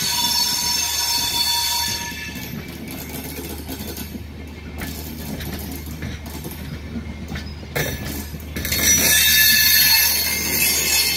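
Express train's passenger coaches rolling slowly past over the rails with a high-pitched wheel squeal. The squeal fades about two seconds in, leaving a lower rolling rumble of wheels on track, and comes back louder near the end.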